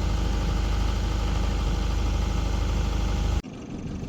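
Sailboat's inboard engine running steadily under way, a low hum. It cuts off abruptly near the end, leaving a quieter low rumble.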